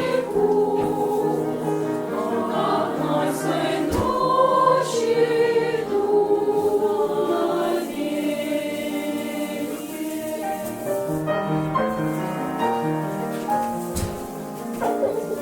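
Children's music-school choir singing in harmony, in long held notes that change chord every second or so, a little softer in the second half.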